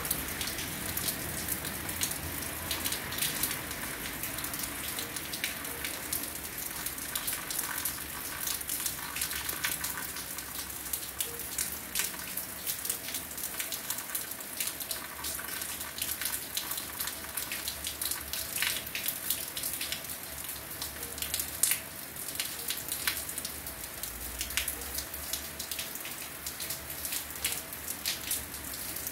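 Heavy rain falling steadily, with many close drops striking hard surfaces in a constant patter.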